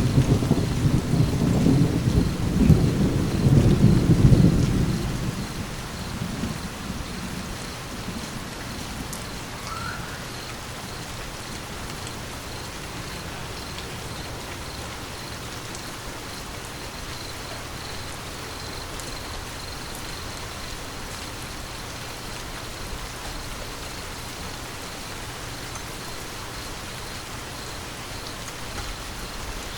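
Steady rain falling, with a rolling thunder rumble at the start that fades away over the first six seconds or so, leaving only the even hiss of rain.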